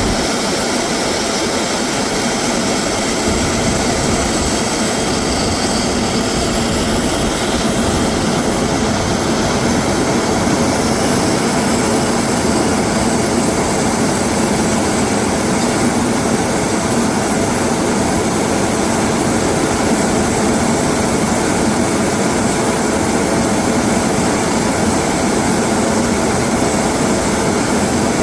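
Drukair ATR 42-600's two Pratt & Whitney PW127 turboprop engines and propellers running, a loud, even drone that stays steady throughout.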